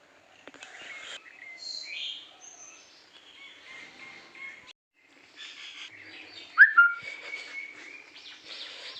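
Birds chirping and whistling in short scattered calls, with one loud, sharp rising call about two-thirds of the way through.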